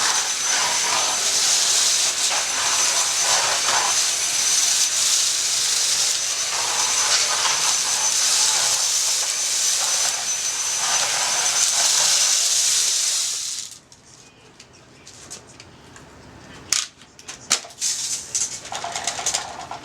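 A loud, steady hiss that cuts off abruptly about fourteen seconds in, followed by scattered sharp crackles and pops from the wood fire.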